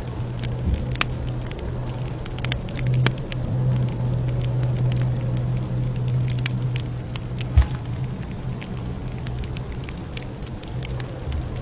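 Campfire crackling: irregular sharp pops and snaps over a steady low rumble, with one louder pop about two-thirds of the way through.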